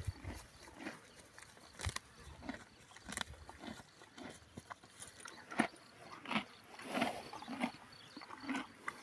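An animal making short, irregular sounds, several a second.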